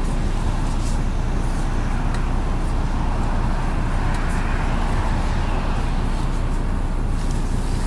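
Steady drive noise inside a moving MAZ 103.562 bus: the diesel engine and road rumble low and even, with a few faint rattling clicks now and then.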